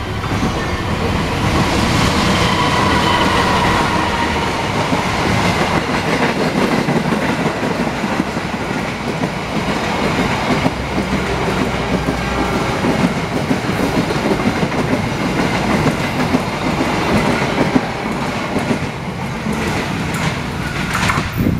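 Passenger train coaches rolling past at a level crossing, their wheels clattering steadily over the rail joints, with a thin high wheel squeal a couple of seconds in.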